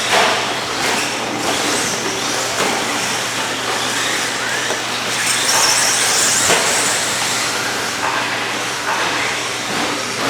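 Radio-controlled 2WD racing trucks running on the track: a steady, noisy mix of motor whine and tyre noise, with a brighter hiss for a couple of seconds around the middle.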